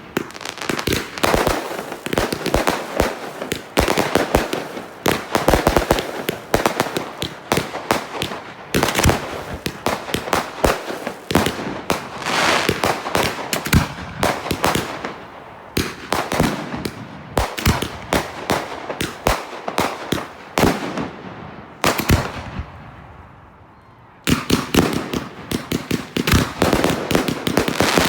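Consumer fireworks firing in rapid succession: a dense run of sharp shots and bursting bangs with crackle. About three-quarters of the way through the firing dies away for a couple of seconds, then starts again loudly.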